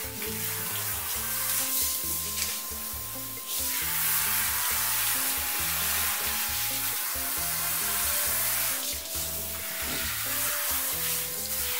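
Handheld shower head spraying water onto a beagle's coat, a steady hiss that gets louder about three and a half seconds in and eases off briefly near the end. Background music with a repeating bass line plays underneath.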